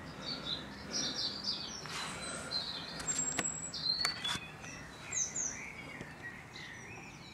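Birds chirping: short high chirps and calls scattered throughout, with a few soft clicks in the middle.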